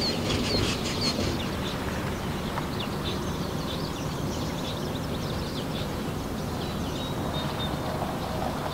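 Birds chirping outdoors: a short high note repeated quickly in the first second, then scattered chirps, over a steady low background rumble.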